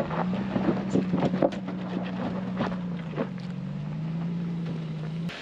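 Off-road vehicle engine running at low crawling speed, its pitch dropping slightly about three seconds in, with scattered crunches and clicks of tires working over rock. The sound cuts off abruptly near the end.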